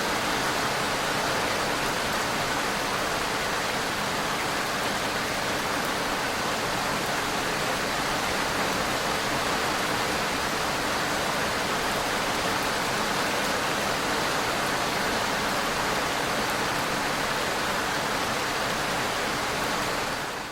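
Heavy rain pouring steadily, an even, unbroken hiss with no thunder or single drops standing out, fading out right at the end.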